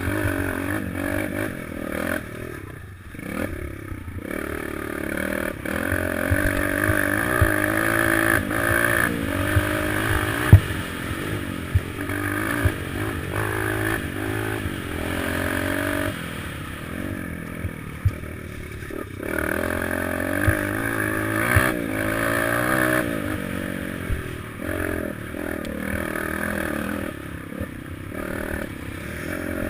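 Small four-stroke single-cylinder pit bike engine being ridden, its pitch rising and falling over and over as the throttle is worked, with a few brief lulls and some clattering knocks.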